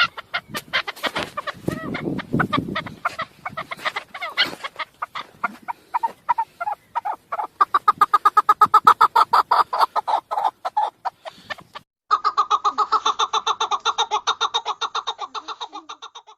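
Chukar partridge calling: a rapid run of clucking 'chuk' notes, several a second. About twelve seconds in it cuts abruptly to another run of the same notes, which fades near the end.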